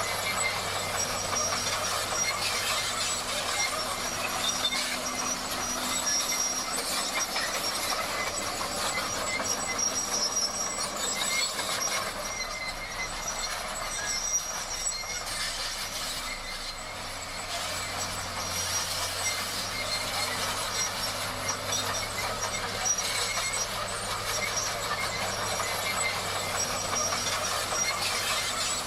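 Komatsu D58 crawler bulldozer at work, its engine running steadily under the clanking and squealing of its steel tracks.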